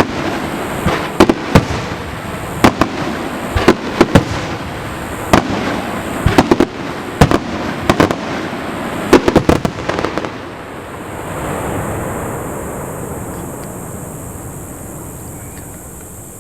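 Aerial firework shells bursting in a dense run of sharp bangs, several a second, for about ten seconds; then the bangs stop and a rumbling echo swells briefly and slowly dies away.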